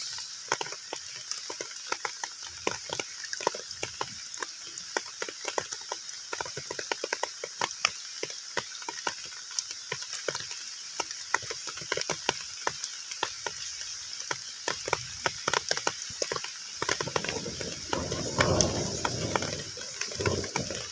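Heavy rain falling on a pond's surface: a dense, irregular patter of drops plinking on the water over a steady hiss, becoming fuller and deeper in the last few seconds.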